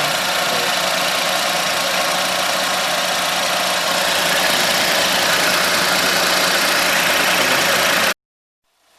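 2006 Suzuki Wagon R's 660 cc three-cylinder engine idling with a steady hum and a dense whirring noise from the belt-driven accessories, which the mechanic suspects comes from a failing water pump. It cuts off suddenly about eight seconds in.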